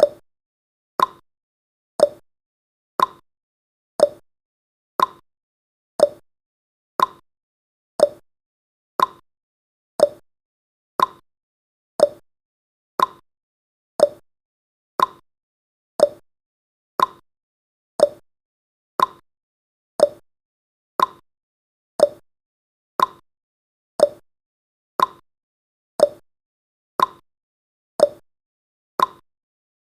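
Clock tick-tock sound effect of a countdown timer, one sharp tick each second. The ticks alternate between a higher and a lower note, tick then tock.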